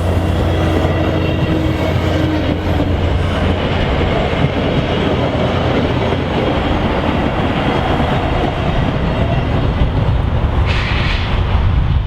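Train rolling past on the track: a steady, loud noise of wheels and cars on the rails.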